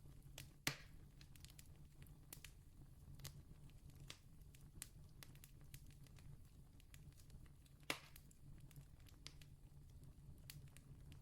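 Wood campfire crackling faintly: scattered small clicks and snaps, with two louder pops, one just under a second in and one about eight seconds in, over a low steady hum.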